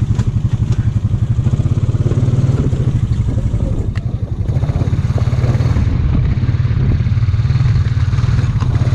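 ATV engine running at low speed with a steady, fast-pulsing exhaust note. It eases off briefly about halfway through, then picks back up. There is a single sharp click shortly before that.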